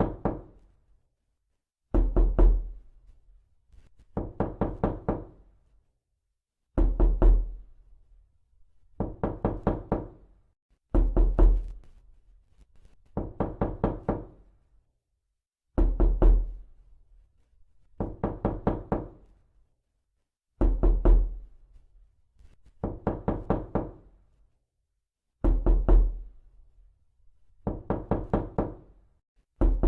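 Realistic knocking sound effect: quick clusters of about four to six knocks, repeating every two seconds or so. Some clusters carry a deeper thud.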